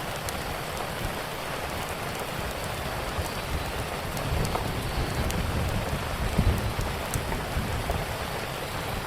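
Steady rain with scattered sharp pops and crackles from a wood fire. A low rumble swells about a third of the way in.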